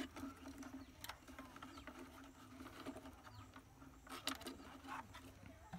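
Light scattered clicks and taps from hands working on small electronic parts and wires, a few seconds apart, over a faint steady low hum.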